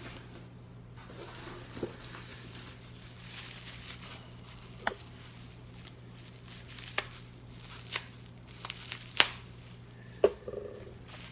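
Chess pieces being unwrapped from their packing: faint crinkling and rustling, with about six short sharp clicks and taps, the loudest about nine and ten seconds in.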